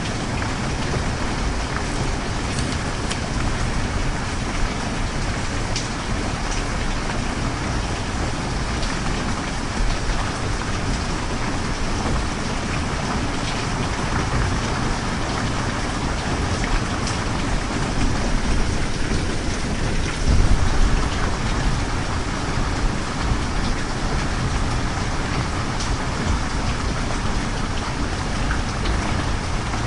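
Steady heavy rain, a dense even hiss with scattered drop ticks. About two-thirds of the way in, a brief low rumble swells up and fades.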